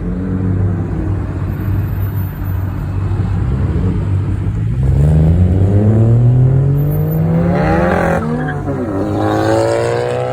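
Car engine accelerating hard: its pitch climbs over several seconds, drops sharply about eight seconds in as it shifts up a gear, then climbs again. This plays over a steady low drone of idling engines.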